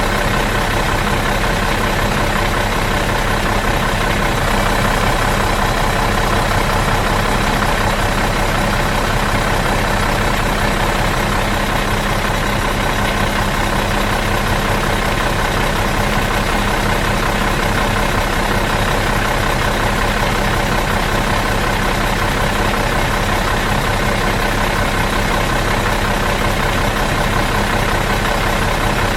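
Bus diesel engine idling steadily in neutral, an even, unchanging hum.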